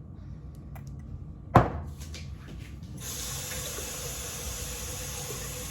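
A single sharp knock, then a kitchen tap turned on about three seconds in, with water running steadily into the sink.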